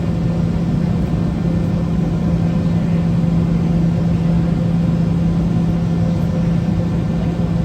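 Boeing 717 cabin noise from its rear-mounted Rolls-Royce BR715 turbofans running steadily at low power before the takeoff roll: a steady low hum over a rumble.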